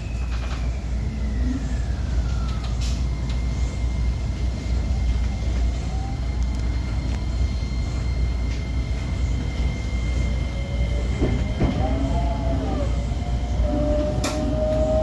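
125 series electric railcar running, heard from inside the front of the car: a steady low rumble of wheels on rail under a thin motor whine. The whine glides down in pitch over the first few seconds and rises again near the end.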